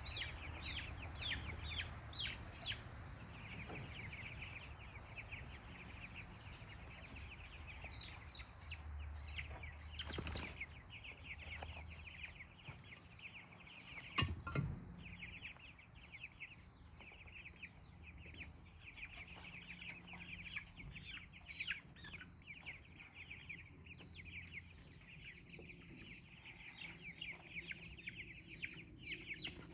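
A flock of young Cornish Cross meat chickens peeping continually in short, high cheeps. Two sharp knocks come about ten and fourteen seconds in.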